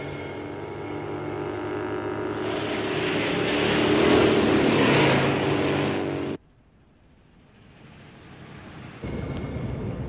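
A film soundtrack of a vehicle engine running, louder and noisier towards about five seconds in, then cut off suddenly at about six seconds. After a quiet moment, a rushing noise starts near the end.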